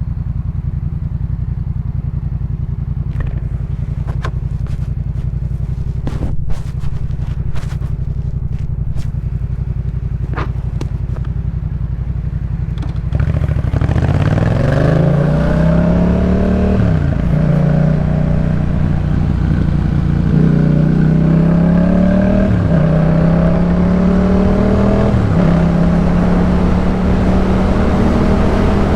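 Yamaha MT-07's parallel-twin engine through a Jeskap K4 full exhaust, idling steadily with a few sharp clicks. About halfway through it pulls away and accelerates, the pitch climbing and dropping back at several upshifts.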